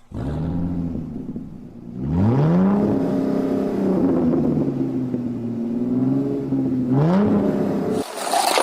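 Cartoon motor-vehicle engine sound effect: it starts up, revs up in pitch about two seconds in, runs steadily, revs up again near the end and cuts off suddenly.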